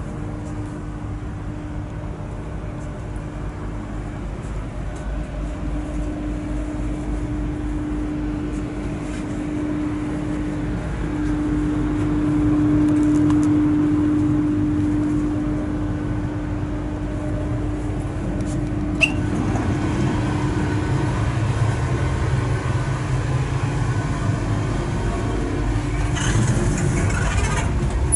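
Cabin noise inside an Intercity Express Train carriage: a steady low rumble and a humming tone that swells louder in the middle, then dies away. A single sharp click comes about two-thirds of the way through, and a short rush of hiss near the end.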